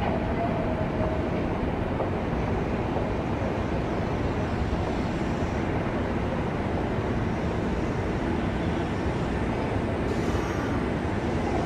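Kintetsu electric commuter train pulling slowly into the station platform, a steady low rumble of wheels and running gear, with a faint high hiss about ten seconds in.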